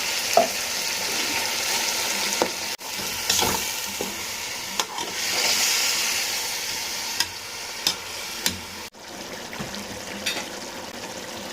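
Food sizzling as it fries in a pot while being stirred, with short knocks of the spoon against the pot. The sound drops out suddenly twice.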